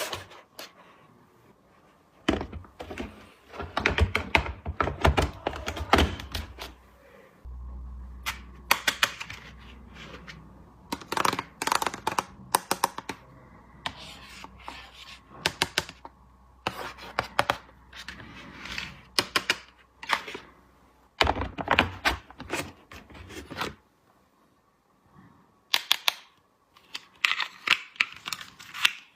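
Small plastic toy pieces being handled, set down and clicked together: clusters of sharp clicks and light knocks with short pauses between them.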